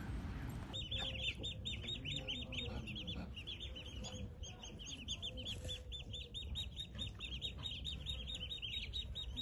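A bird chirping: a steady, rapid run of short high chirps, several a second, starting just under a second in.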